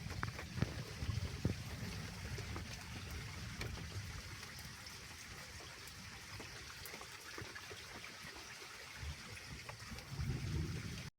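Water running and trickling steadily, with low gusts of wind rumbling on the microphone; the sound cuts off suddenly near the end.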